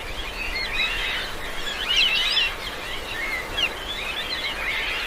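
Many birds chirping and calling at once, quick overlapping high chirps over a steady outdoor hiss.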